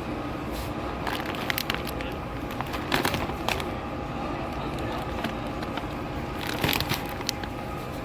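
Plastic snack packaging crinkling and crackling as it is handled, in several short bursts over a steady low background hum.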